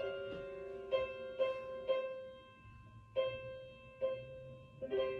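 Solo piano playing the introduction to an art song: a slow, sparse run of notes and chords, each struck and left to ring and fade.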